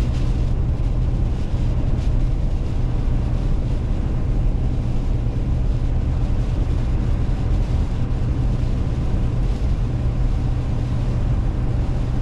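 Steady low drone of a car driving at speed, the road and engine noise heard from inside the cabin.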